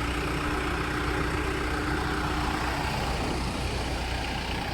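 Off-road vehicle's engine running steadily at low revs while crawling over rocks, with a steady low hum that drops away about three seconds in.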